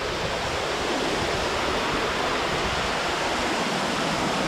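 Waterfall rushing steadily, heard close by.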